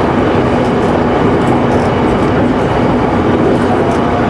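Electric local train running at speed, heard from inside the front of the car: a steady rumble of wheels on rail with a faint even hum under it.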